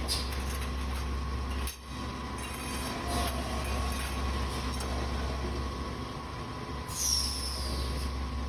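Automatic copper tube end forming and flattening machine running: a steady low hum with a constant whine, and a short hiss with a falling high whistle near the end.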